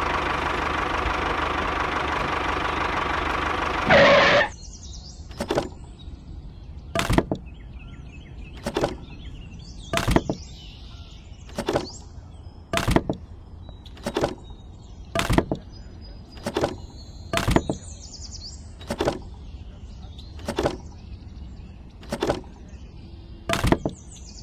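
A miniature model tractor's small motor runs steadily with a whine, then cuts off about four seconds in. After that, wooden sticks are dropped one at a time into a plastic toy trailer bed. Each lands with a sharp knock, about fifteen in all, roughly one every second and a half.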